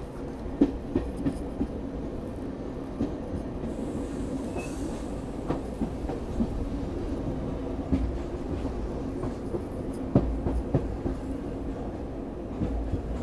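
Passenger train running on the track: a steady low rumble with irregular sharp clicks and knocks from the wheels.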